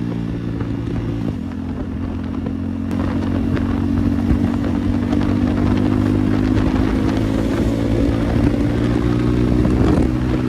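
KTM Duke 390's single-cylinder engine running with its exhaust removed, under way at a steady pace. Its note eases up slightly about two seconds in and then holds.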